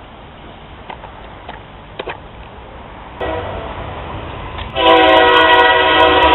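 Locomotive air horn sounding one long, loud chord of several notes, starting about five seconds in, over the rumble of an approaching train that grows louder about three seconds in.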